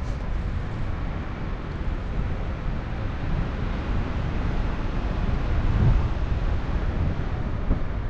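Airflow buffeting the microphone of a paraglider pilot in flight: a steady, noisy wind rush that is heaviest in the low end and swells briefly about six seconds in.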